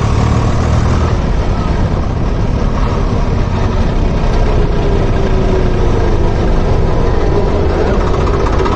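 Tractor engine running steadily while the tractor is driven, a loud, unbroken drone.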